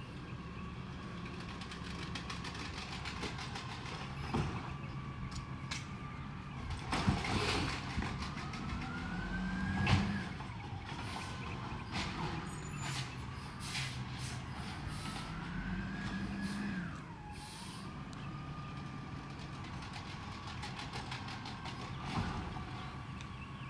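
Peterbilt 320 garbage truck's diesel engine running, revving up twice and dropping back as its hydraulics cycle, with several sharp knocks and clanks.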